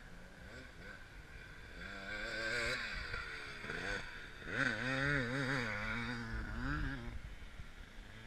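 Off-road race motorcycle engine revving, its pitch rising and falling with quick throttle changes, getting louder about two seconds in and loudest in the second half.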